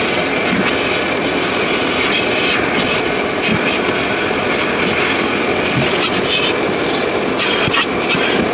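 Car wash vacuum running steadily, its hose sucking air, with a steady high whine over the rushing noise.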